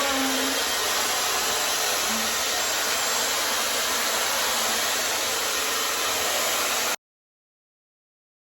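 Dyson Supersonic hair dryer running steadily: a loud, even rush of blown air with a thin high whine on top. It cuts off abruptly about seven seconds in, leaving dead silence.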